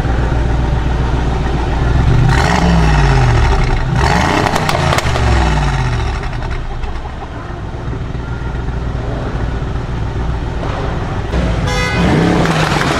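Brabus 900 Rocket G63's twin-turbo V8 running with its exhaust loud, the engine pitch rising and falling twice between about two and five seconds in, the second time with a rapid crackle. It settles back to a steady drone, with a short sharper pitched sound near the end.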